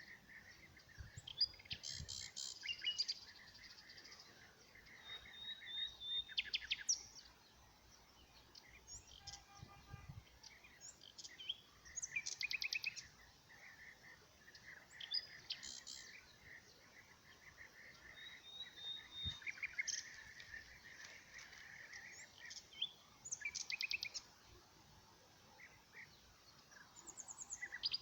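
Several small songbirds chirping and trilling, with quick runs of rapid high notes every few seconds over a faint steady background hiss.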